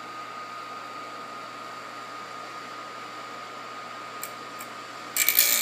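Steady fan-like background hum with a faint steady whine. Near the end comes a loud burst of grinding about a second long: a piston ring's end gap being ground on a ring filer.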